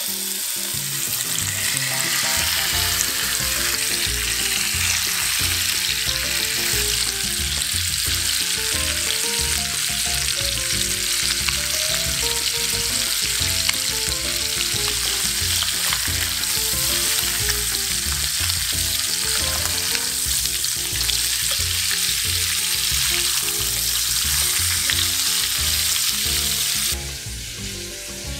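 Chicken legs frying in hot vegetable oil in a nonstick pan, a loud, dense, steady sizzle that stops abruptly near the end.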